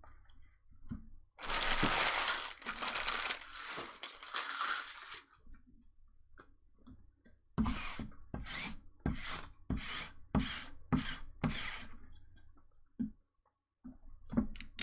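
Foil trading card pack torn open, a dense ripping lasting about four seconds, followed by a run of about nine short crinkling strokes, about two a second.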